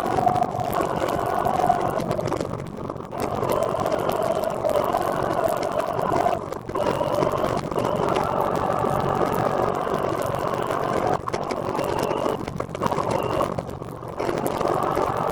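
Steady whirring ride noise of a recumbent trike rolling along the road, with a wavering mid-pitched hum that dips briefly now and then.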